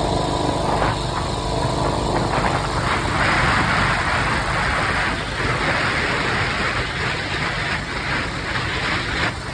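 1953 Harley-Davidson Panhead V-twin engine running under way, heard from the sidecar. A loud hiss of wind and road noise swells up about three seconds in and largely covers the engine until near the end.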